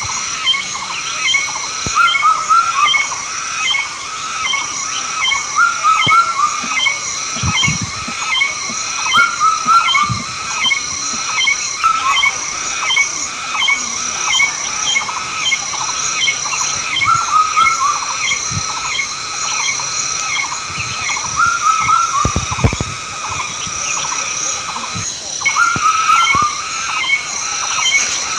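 Chorus of wild animal calls: short chirping calls repeat over and over in overlapping rhythms, over a steady high pulsing call.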